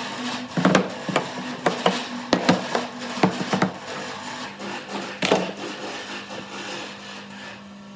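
Wooden pieces being handled and knocked together, with rubbing between about a dozen irregular sharp knocks that die away after about five seconds. A steady low hum runs underneath.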